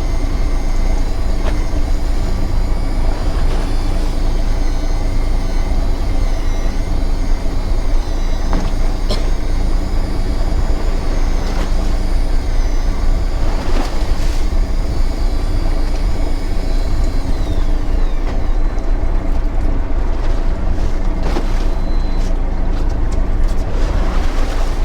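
Electric fishing reel's motor whining under heavy load as it hauls up a hooked fish, its pitch wavering up and down, then sliding down and dying away about two-thirds of the way through. A steady low engine rumble runs underneath.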